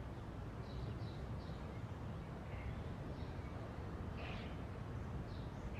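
Quiet background noise with about eight faint, short, high chirps scattered through it.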